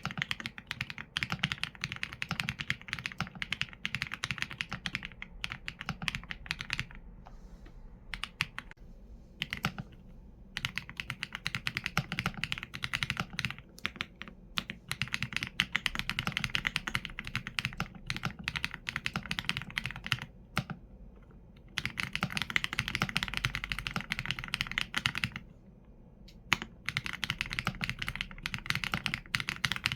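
Mechanical keyboard with Leobog Graywood V4 linear switches and PBT keycaps, typed on steadily: rapid keystroke clacks in bursts, broken by brief pauses.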